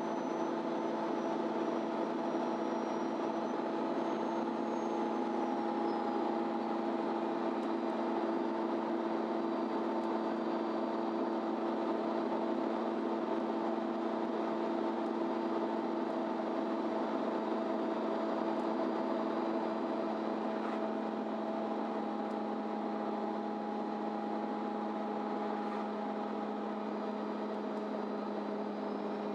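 Inside a MAN Lion's City Ü bus under way: the engine and drivetrain hum steadily over road noise, at an even speed, easing slightly after about twenty seconds.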